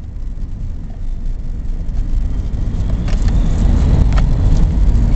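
Steady low rumble of a car being driven, heard from inside the cabin: engine and road noise, getting a little louder about a second in, with a few faint clicks.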